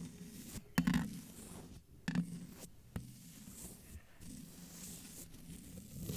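Close-miked ASMR sounds: something is brushed and scratched against the microphone with an uneven rustle, layered with a few sharp mouth clicks.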